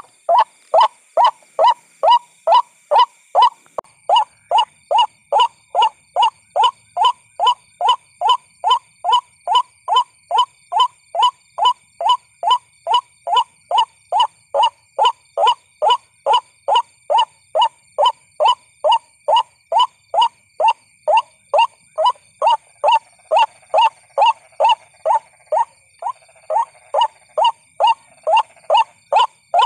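White-breasted waterhen calls played as a trapping lure: short, evenly repeated notes, about two a second, with a faint steady high-pitched tone underneath.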